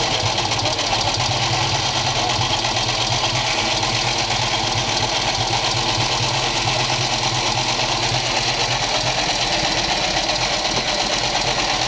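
Antique Harley-Davidson VL's flathead V-twin engine idling steadily after being kick started.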